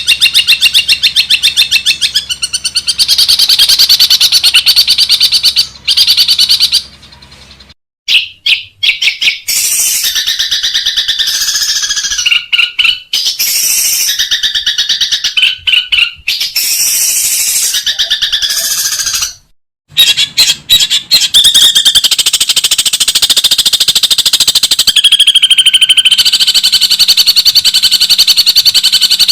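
Long-tailed shrike (cendet) singing a loud, fast, dense chattering song of rapidly repeated notes, breaking off briefly twice.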